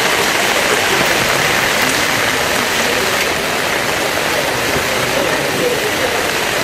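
Heavy rain falling steadily onto floodwater, an even hiss.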